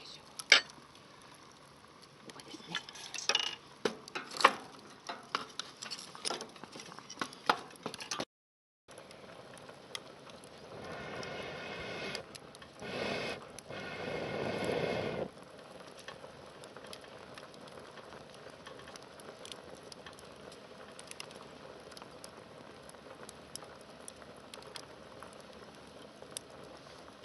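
Wood fire crackling with sharp pops under a hangō mess tin of rice. Partway through, a few seconds of louder hissing and bubbling from the pot coming to the boil, then a quieter steady hiss with light crackles.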